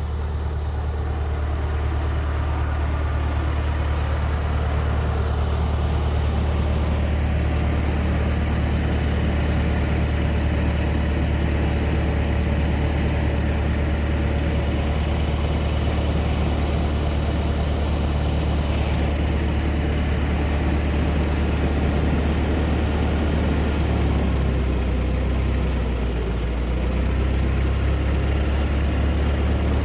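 Engine idling steadily with a low, even hum, its note shifting briefly about five seconds before the end.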